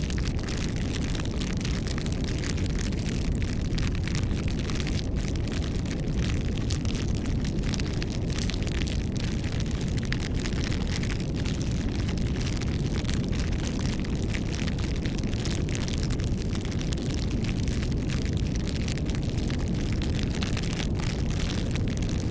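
Bonfire burning: a steady low rumble of flames with frequent small crackles and pops scattered through it.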